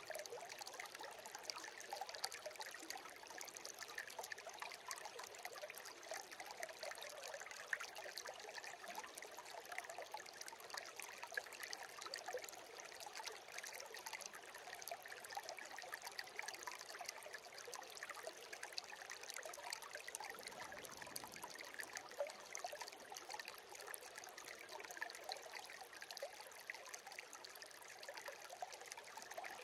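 Shallow stream trickling and babbling over stones, a steady patter of small splashes.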